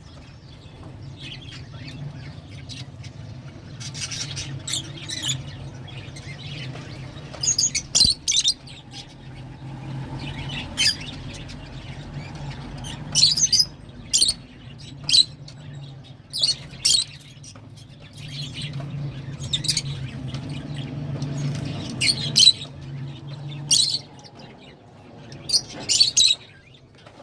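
Lovebirds giving short, sharp, shrill calls in quick clusters every second or two, over a steady low hum.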